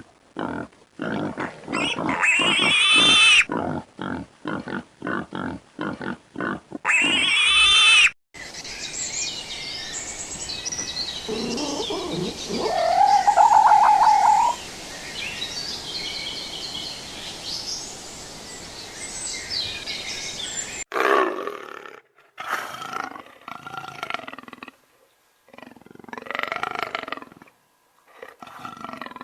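A run of different animal calls in three separate clips. The first is rapid pulsing grunts with two loud high calls. The second has one rising call over a steady outdoor hiss. The third is a series of short separate calls.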